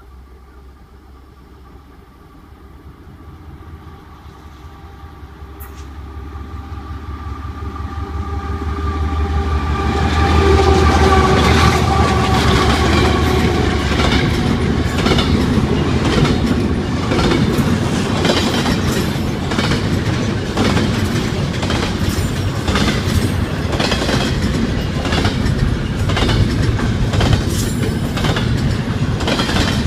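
Ferromex freight train approaching and passing close: the locomotive's engine sound grows steadily louder over about ten seconds, then the cars roll by with a rapid, repeating clickety-clack of wheels over the rail joints.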